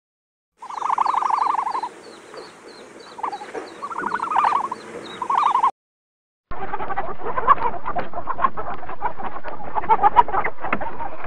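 Two separate sounds. First, a few short pulsing calls over a regular high chirping, about three chirps a second. Then, after a brief silence, chickens clucking with many short, sharp noises.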